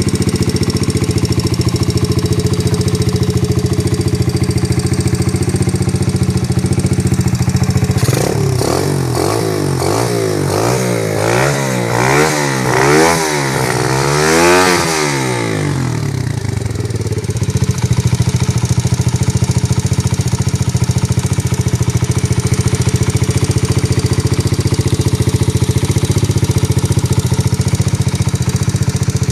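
Terra Moto TDX 125F pit bike's 125 cc single-cylinder four-stroke engine idling steadily, then revved in a run of about six quick throttle blips, each rising and falling in pitch, before settling back to idle.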